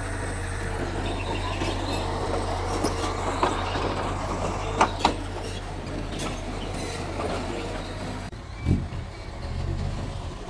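Mitsubishi bulldozer's diesel engine running under a steady low drone, with squealing and clanking from its steel crawler tracks and two sharp metallic knocks about five seconds in. The drone drops away abruptly about eight seconds in, leaving a few scattered knocks.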